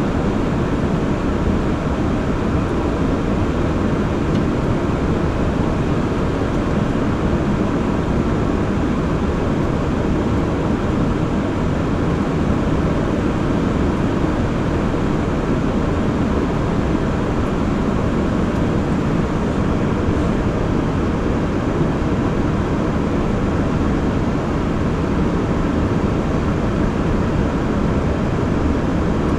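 Steady cockpit noise of an Airbus A340 on stabilised final approach: airflow and engine noise at a constant level.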